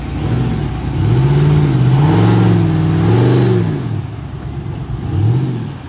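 Off-road truck engine revved hard in repeated surges, its pitch climbing and dropping, with one more short rev near the end.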